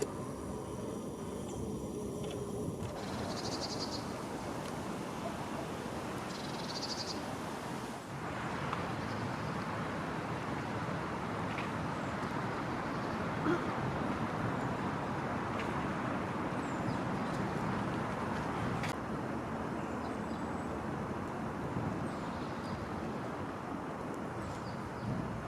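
Wild birds giving two short, high, rapidly pulsed calls, about 3 and 7 seconds in, with a few fainter chirps later, over a steady background hiss and rumble.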